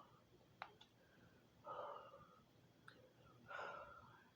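A person breathing out heavily twice, about two seconds apart, the deep breaths of someone uncomfortably full after eating, with a faint click near the start.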